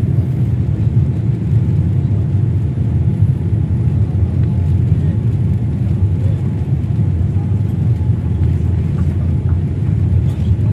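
Steady low rumble of a jet airliner's cabin in cruise flight: engine and airflow noise heard from a passenger seat.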